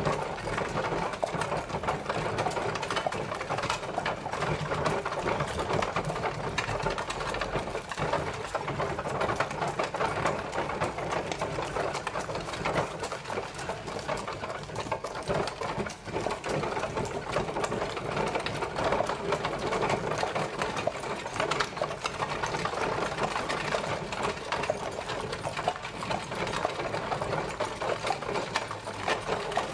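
Horse-drawn carriage on the move: a steady, dense rattle and clatter of its wheels and wooden frame that does not let up.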